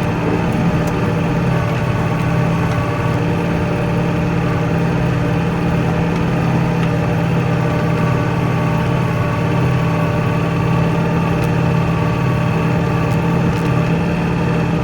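Kioti NX4510 compact tractor's diesel engine running at a steady speed while it plows through deep snow.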